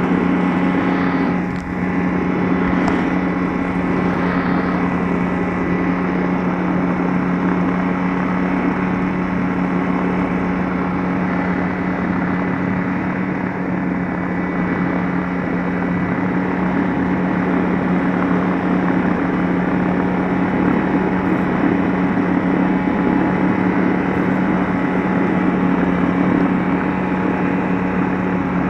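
Light aircraft's piston engine and propeller running with a steady drone.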